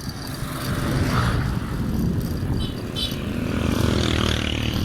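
Wind buffeting the microphone of a moving bicycle, a steady low rumble, with a motor vehicle's engine passing by during the second half.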